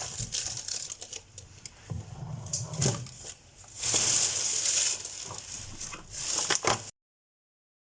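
Groceries being handled, with packaging crinkling and rustling in irregular bursts, cut off to dead silence about seven seconds in.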